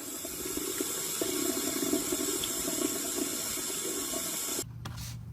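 Water running steadily, like a tap into a sink, cutting off suddenly about four and a half seconds in; a faint low hum follows.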